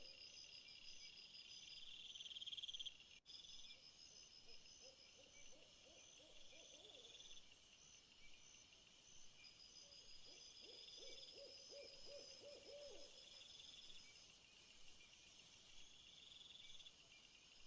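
Faint night-time insect chorus: several insects trilling steadily at different high pitches, some starting and stopping. Twice, a low hooting call comes in a rapid series of short pulsed notes lasting two to three seconds.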